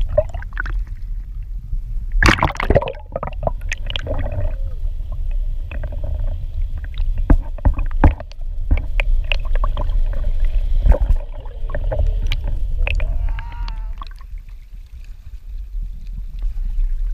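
Wind rumbling on the microphone and water sloshing against a kayak, with frequent short knocks and clicks from the hull and fishing gear and a loud burst of noise about two seconds in.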